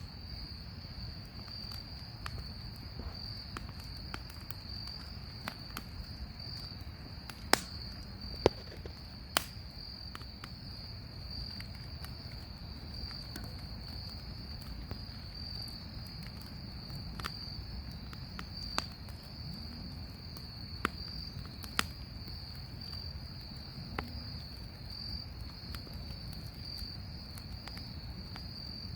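Bonfire crackling, with sharp pops at irregular intervals, over a steady high trill of insects.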